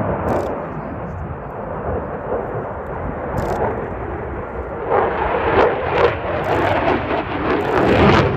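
Eurofighter Typhoon's twin EJ200 turbofan engines: loud, rumbling jet noise that grows louder and crackles from about five seconds in as the fighter passes.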